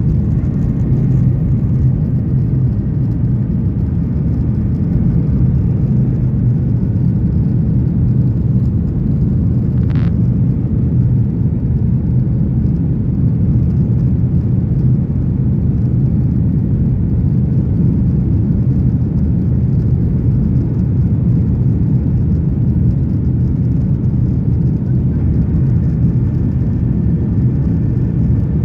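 Steady low rumble of engine and airflow noise heard inside the economy cabin of a Boeing 737-900ER, with one brief faint high click about ten seconds in.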